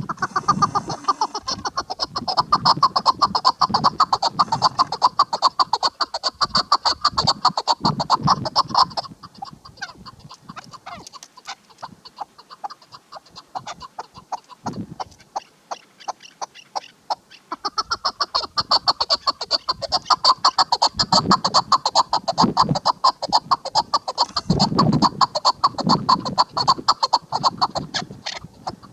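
Chukar partridge calling: a fast, even run of clucking notes in two long bouts, with a weaker, patchier stretch of calls between them.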